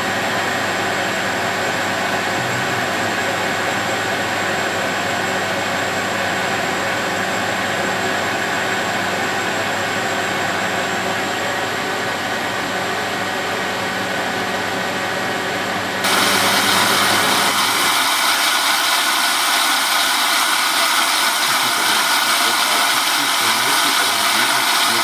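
Zanussi Z913 washing machine running, a steady mechanical whine of several tones. About two-thirds of the way through the sound changes abruptly to a louder, hissier noise.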